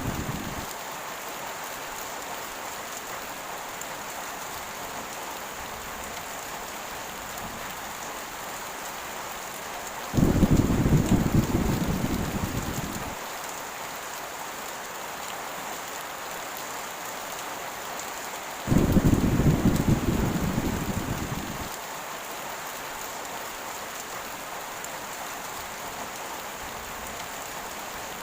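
Heavy rain falling steadily, with two deep rolls of thunder, about ten and nineteen seconds in, each starting suddenly and fading away over about three seconds.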